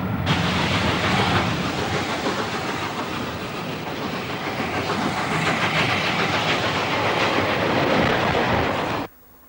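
A train running along the line, with a steady noise that cuts off abruptly near the end.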